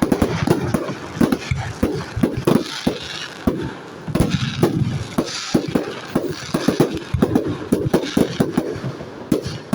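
Aerial fireworks display: a dense run of shell bursts going off one after another, with crackling between the bangs.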